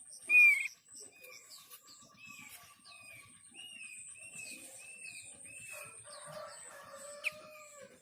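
Thick-billed white-eye calls used as a lure: a loud, short call just after the start, then a run of short arched whistled notes repeated about twice a second. A steady high-pitched buzz runs underneath, and a lower drawn-out call comes near the end.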